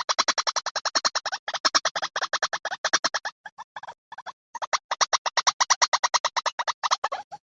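White-breasted waterhen lure recording: calls in a fast run of harsh pulsed notes, about nine a second, with a short break about four seconds in.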